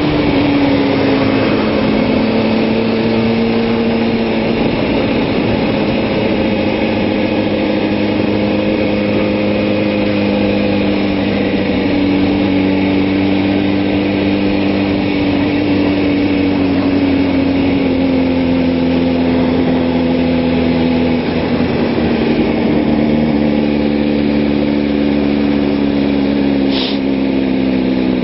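Kawasaki ZX-6R 600 sportbike's inline-four engine running at steady high revs, its pitch dipping and climbing gently several times under smooth throttle control, over a constant rush of wind.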